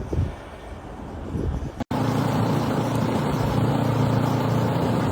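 Gusting wind buffeting the microphone for about two seconds, then a sudden cut to steady vehicle engine and road noise.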